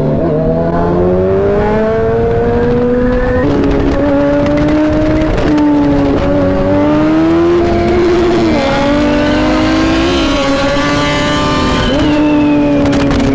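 Superbike engines accelerating hard under full throttle, the pitch climbing and then dropping sharply at each of several upshifts.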